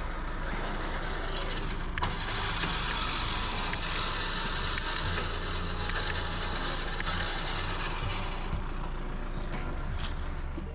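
An engine running steadily with a broad noise, over faint background music.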